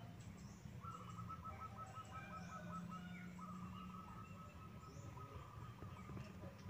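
Faint outdoor ambience of birds chirping: a rapid run of short high notes from about a second in gives way to one long held note, with scattered higher chirps and a steady low hum underneath.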